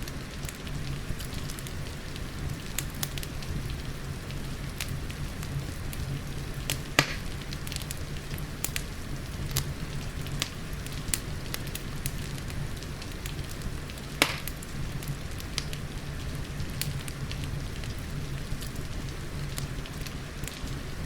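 Wood fire crackling with many small sharp pops and two louder snaps, about 7 and 14 seconds in, over a steady hiss of rain and a low, even rumble.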